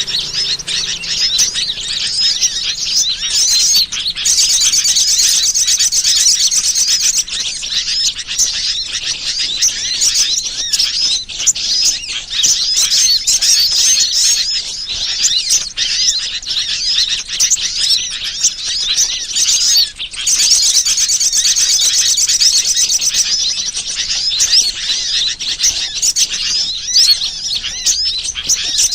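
Dense, loud chorus of small birds chirping and twittering, with bursts of fast trilling about 4 seconds in and again about 20 seconds in. This is a bird-lure (pikat) call recording, played to draw birds in.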